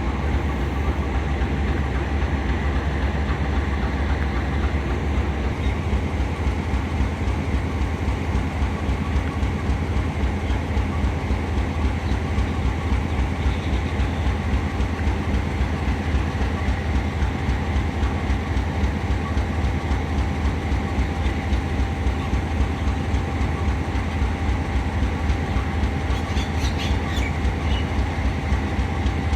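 Passenger train pulling into the station behind a GEU-40 diesel-electric locomotive: a steady, deep, pulsing engine rumble with wheels clattering on the rails.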